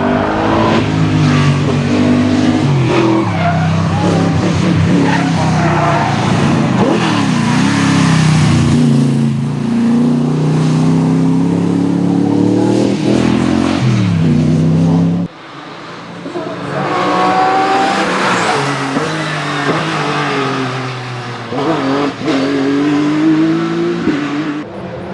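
Race car engines at full throttle on a hill-climb course, the pitch climbing and dropping back again and again as they shift up through the gears. About fifteen seconds in the sound cuts off abruptly and a second, quieter run picks up, again rising through the gears.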